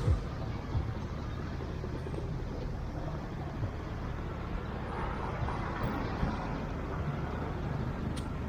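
Road traffic: vehicle engines running with a steady low rumble, and a louder swell of passing-vehicle noise about five seconds in.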